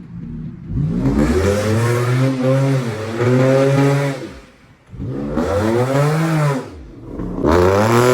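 Car engine revved hard three times in long surges, each rising in pitch, holding, then dropping away.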